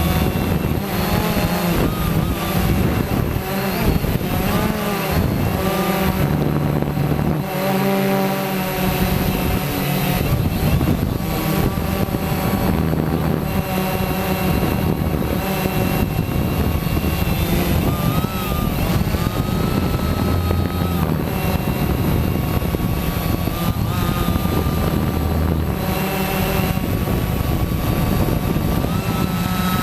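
Quanum Nova quadcopter's electric motors and propellers whining in flight. Several tones rise and fall together in pitch as the throttle changes.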